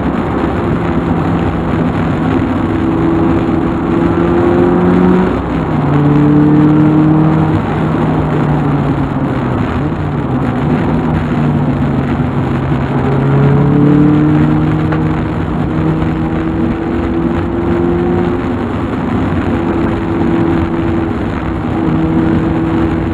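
Car engine and road noise heard while driving, the engine note rising slowly with speed and dropping back a few times, around five and thirteen seconds in.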